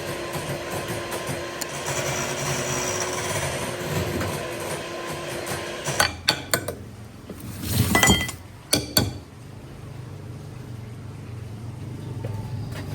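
Several sharp clinks in quick small groups, about six, eight and nine seconds in, over a steady low noise.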